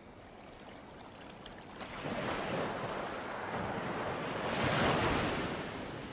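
Ocean surf: a wave swells about two seconds in, is loudest near five seconds, then washes away.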